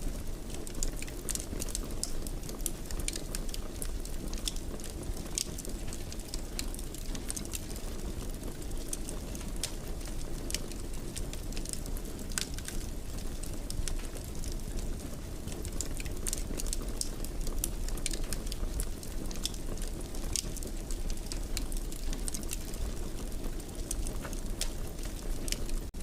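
Wood fire crackling in a fireplace: frequent small, irregular pops and snaps over a steady low rumble of the burning fire.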